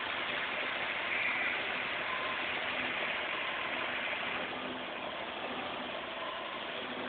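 Vauxhall Senator's 3.0-litre C30NE straight-six engine idling steadily, warmed by several minutes of ticking over but not yet at full operating temperature. It grows slightly fainter in the second half.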